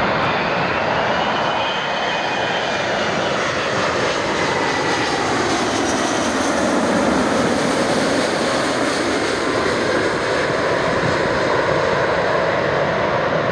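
Four-engined Airbus A380 jet airliner passing on its landing approach: loud jet noise with a whine falling in pitch, swelling to its loudest about seven seconds in.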